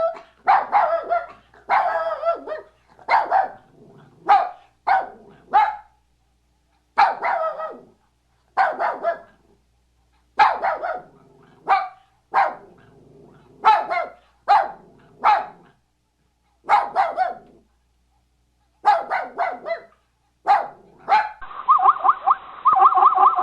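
A dog barking over and over, one or two barks a second with short pauses, some barks drawn out. Near the end a different, rapidly pulsing sound takes over.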